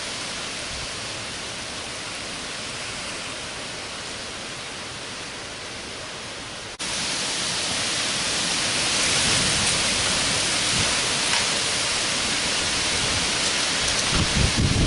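Thunderstorm rain pouring down as a steady hiss. About seven seconds in it cuts suddenly to a louder, brighter downpour, and near the end gusts of wind buffet the microphone.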